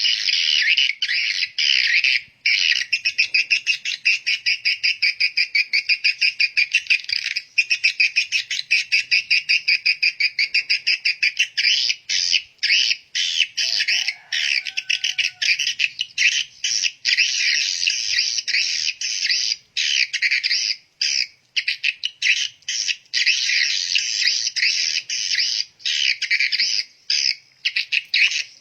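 Many small birds chirping in a dense, rapid chatter, a steady stream of high chirps broken only by brief gaps.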